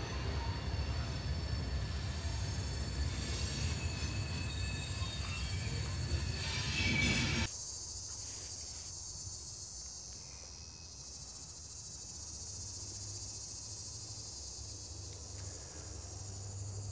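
A loaded coal train passing on the main line: a steady low rumble of the cars with thin high squeals from the wheels. It cuts off abruptly about seven and a half seconds in, leaving a steady high buzz of insects.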